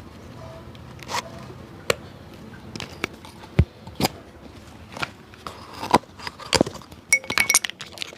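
Cobbler's hands and tools working on an old shoe: irregular sharp clicks, taps and short scrapes, coming faster in a quick cluster near the end.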